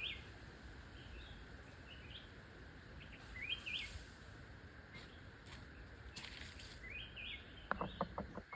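Bird giving short, repeated chirps, a few every second, over faint background hiss. Near the end comes a quick run of about eight sharp taps or clicks in under a second.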